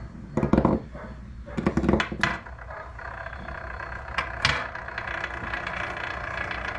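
Small lathe-turned spinning tops clattering and knocking on a workbench in a few short bursts, then a steady mechanical whirring hum from about five seconds in.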